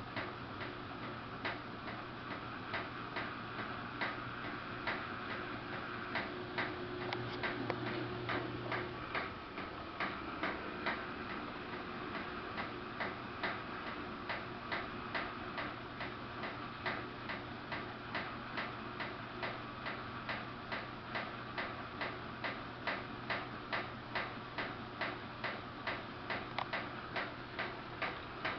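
Samsung WF448 washing machine running: a steady low hum with a regular ticking, about one and a half clicks a second.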